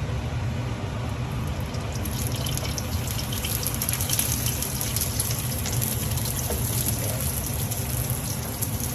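Vegetables sizzling in hot olive oil in a frying pan, a steady hiss with crackling that gets busier about two seconds in.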